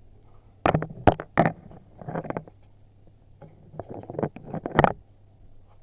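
Close handling noise: a quick run of loud knocks and rustles about a second in, then a second run near the end.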